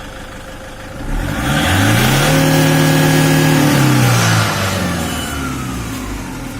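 Car engine revved once during an HHO carbon-cleaning run: the pitch climbs over about a second, holds high for about two seconds, then falls back towards idle.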